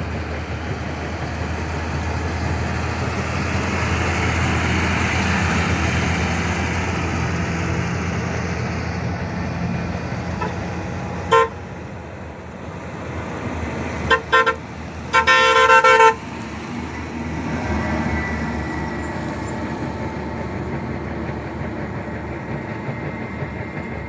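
Steady road and engine noise of traffic on a highway. A vehicle horn honks briefly once, then twice in quick succession, then sounds once for about a second.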